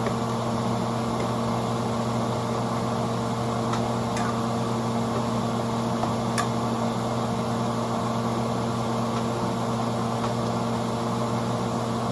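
A steady machine hum over even hiss, with a few faint ticks about four and six seconds in.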